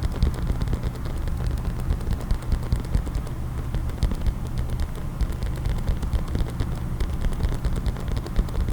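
Fast, continuous tapping of fingers on a case, many small taps a second.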